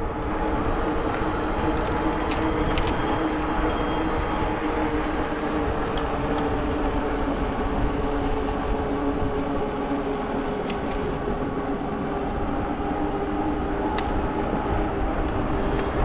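E-bike rolling along a trail: a steady rumble of tyres with a low, even motor hum, and a few light ticks.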